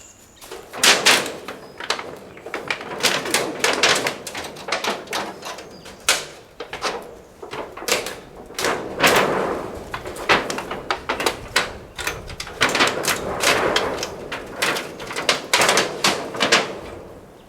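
Irregular knocks and clatters from hard materials being handled and worked on, some of them ringing briefly.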